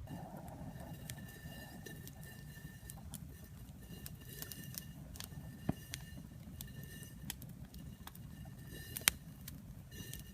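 Campfire crackling, with scattered sharp pops and ticks, two louder pops about halfway and near the end, over a low outdoor rumble.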